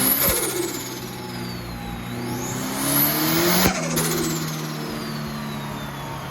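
Turbocharged Ford Pinto engine with a Pulsar GTX28 turbo revved on a rolling-road dyno: the turbo's high whistle climbs with each rev, and on lift-off just after the start and again at about 3.7 s the throttle snaps shut and the turbo flutters as its whistle winds down.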